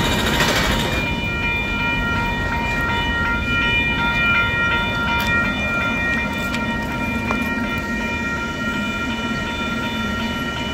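Union Pacific freight train of hopper cars rolling past, a steady rumble of the cars. Several steady high tones sound over it from about a second in.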